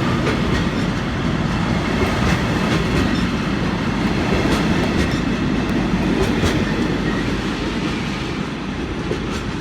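Loaded China clay freight wagons rolling past on the rails: a steady heavy rumble with wheels clicking over the rail joints, easing a little near the end.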